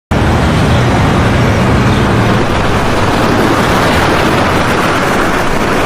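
Loud, steady rushing roar of a torrent of floodwater.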